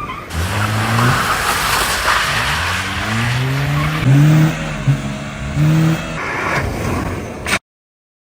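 Car engine revving up and down several times while the tyres squeal. The sound cuts off suddenly near the end.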